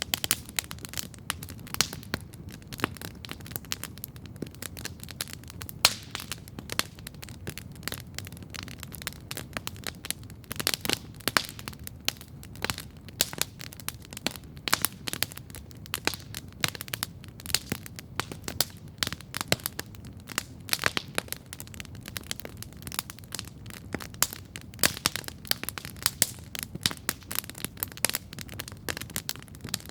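Wood campfire burning and crackling steadily, with irregular sharp pops and snaps over a low, steady rumble of the flames.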